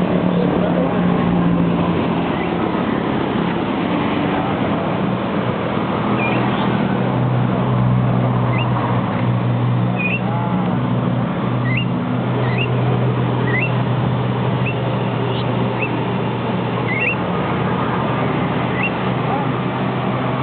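Steady engine hum of passing traffic or a running motor, with a small bird giving short, high chirps about once a second from about a third of the way in.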